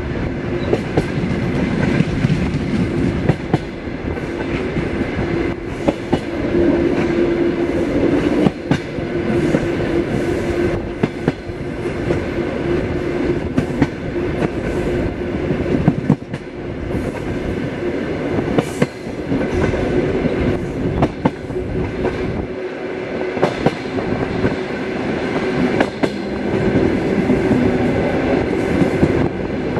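Suburban train carriage running along the track: a steady rumble and hum of the wheels on the rails, with frequent irregular clicks.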